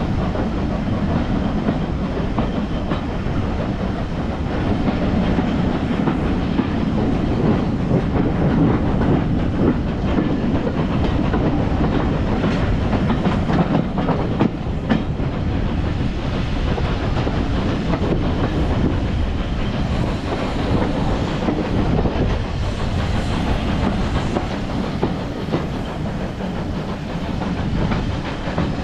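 Steam-hauled train running along the track: a steady rolling rumble with the clickety-clack of wheels over rail joints and a faint hiss of steam.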